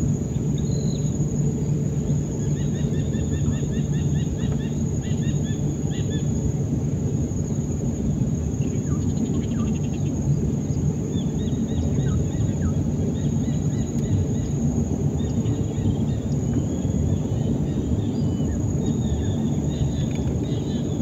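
Birds chirping in quick repeated trills, about two to four seconds in and again from about eleven seconds on, over a steady low rumble and a thin steady high whine.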